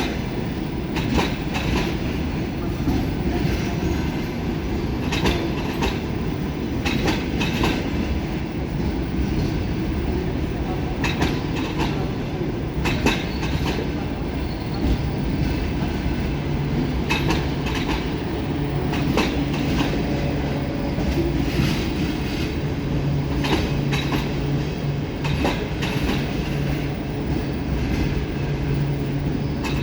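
Passenger train carriages rolling slowly past, their wheels clicking over rail joints again and again. A low steady hum comes in about halfway through.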